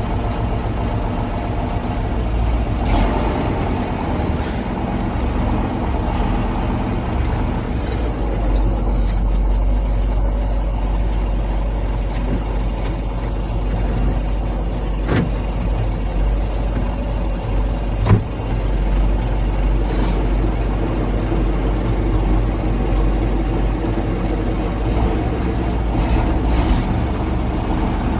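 KAMAZ 4310 6x6 truck's V8 diesel engine running steadily as the truck drives off-road, with a few sharp knocks about 15 and 18 seconds in; the second knock is the loudest.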